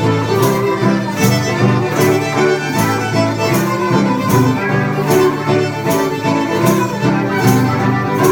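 Bluegrass instrumental break: a fiddle takes the lead over guitar and a steady beat.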